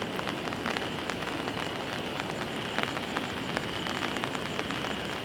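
Steady rain falling, with many sharp drop impacts ticking through it.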